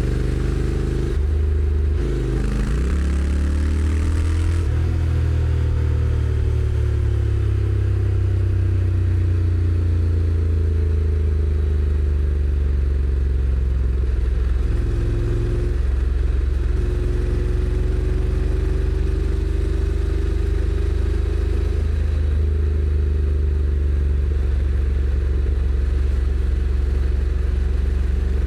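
Honda NC750X's parallel-twin engine running under way, its pitch climbing slowly and dropping a few times as the dual-clutch transmission changes gear.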